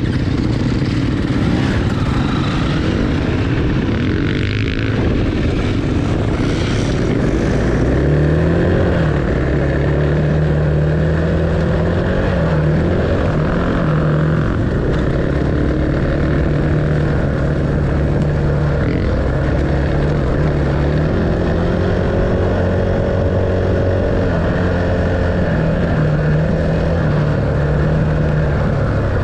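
Dirt bike engine running while being ridden. Its pitch rises and falls in steps with throttle and gear changes, over a rushing, rough noise.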